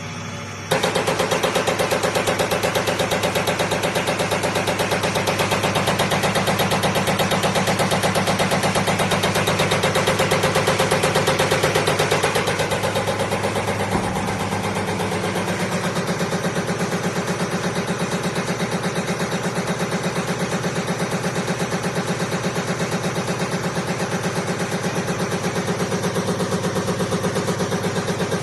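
Diesel injector test bench running: its motor and high-pressure pump start suddenly about a second in and then run with a fast, even pulsing, easing slightly in level about halfway through.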